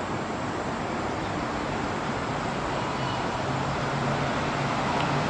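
Steady road traffic noise, with a low engine hum that grows stronger in the second half.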